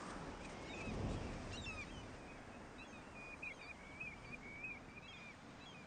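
Faint birdsong: a small songbird giving a long run of short chirps and warbling notes, over a low rush of wind.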